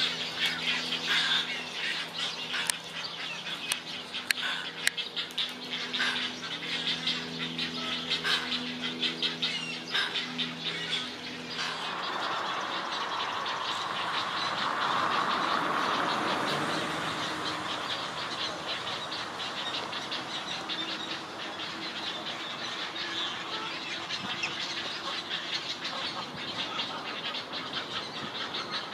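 Birds squawking, over a steady low hum for about the first twelve seconds. After that a rushing noise swells, peaks and slowly fades while the calls go on.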